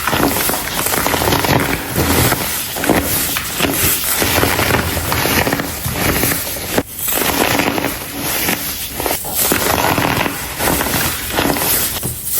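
Blocks of compressed, dyed baking soda crumbling and crunching, a dense steady crackle with a brief lull about seven seconds in.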